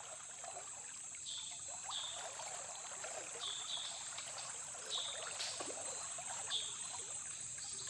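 Riverside rainforest ambience: a steady high insect drone, short chirping calls repeated every second or so, and water trickling softly.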